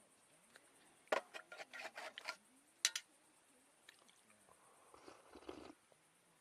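Camp cookware and utensils being handled: a sharp clink about a second in, then a quick run of small clatters, another sharp clink near three seconds, and a softer scrape around five seconds.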